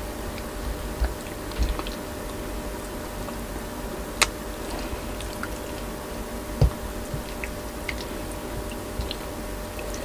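Close-miked chewing and soft mouth sounds of someone eating boiled pork and rice, with scattered small clicks, one sharp click about four seconds in and a low thump a couple of seconds later, over a steady low hum.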